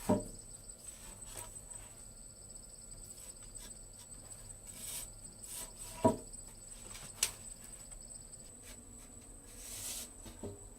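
Insects in the rainforest keeping up a steady high-pitched buzz, with a few sharp knocks: the loudest near the start and about six seconds in.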